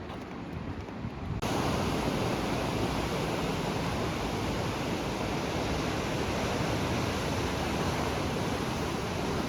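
Ocean surf washing steadily onto a beach. About a second and a half in, the sound jumps abruptly from a quieter, duller hiss of wind to the louder, fuller wash of the waves.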